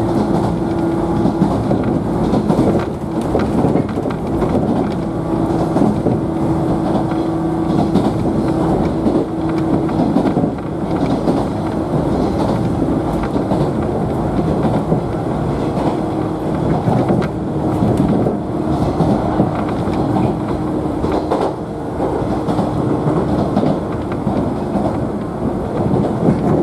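JNR 113-series electric train running, heard from inside the passenger car: a steady rumble with the clickety-clack of wheels over rail joints. A steady hum is strong for the first ten seconds or so and then fades.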